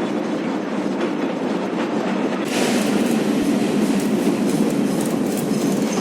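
Old, worn Kyiv tram running on rails, its wheels clattering over the track. It gets louder and harsher about two and a half seconds in.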